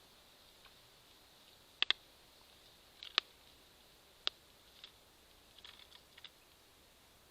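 Birds at a seed feeder: sharp, irregular clicks and taps of beaks pecking at seeds and knocking on the feeder, a quick double tap about two seconds in, single taps a second or so apart after it, then fainter ticks near the end.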